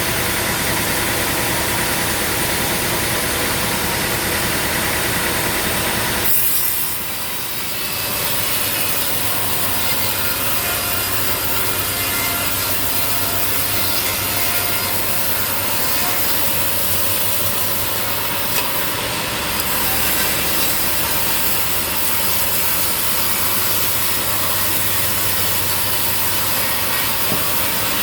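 Sawmill saw running through a log, a steady dense cutting noise over an engine hum, briefly dropping off about six seconds in before carrying on.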